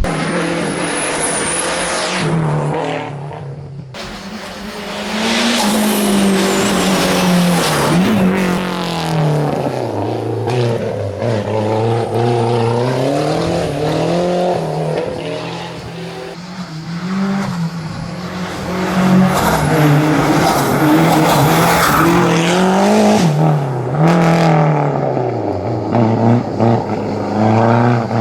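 Race car engine revving hard, its pitch climbing and dropping over and over as the car accelerates, shifts and brakes through a tight course, with a couple of brief lulls.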